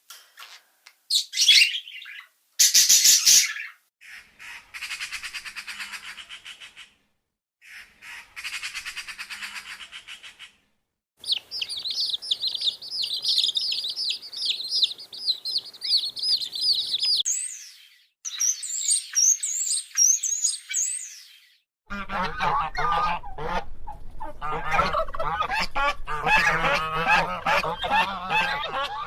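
A series of different birds calling one after another: two loud harsh squawks in the first few seconds, two buzzy rattling calls, then several seconds of high, rapid twittering, and in the last seven seconds a lower, honking gabble.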